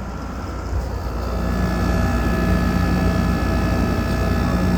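Window air conditioner running, its GMCC rotary compressor and condenser fan giving a steady hum with a few steady higher tones over it. It gets louder from about a second in.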